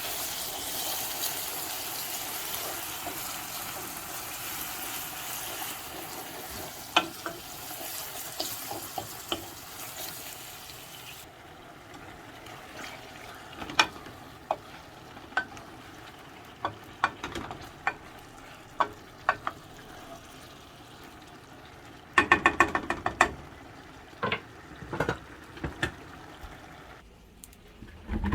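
Kitchen cooking sounds: a steady hiss for the first ten seconds or so, then a utensil clicking and knocking against cookware, with a quick run of rattling knocks a little past twenty seconds in.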